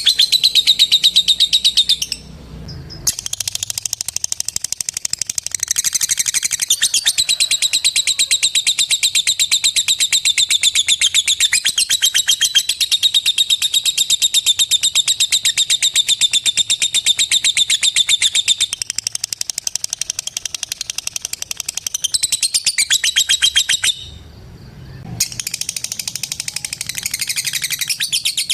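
Lovebird giving its long 'ngekek' call: a fast, rattling run of sharp high chirps in rapid 'ngetik' (typing-like) rhythm, broken by two short pauses, about two seconds in and again near the end.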